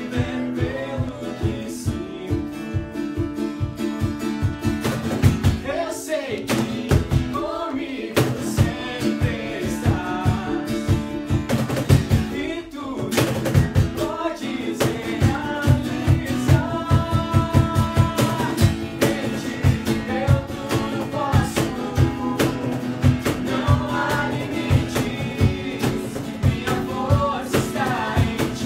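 A song played by a band, with guitar, a steady drum beat and a singing voice.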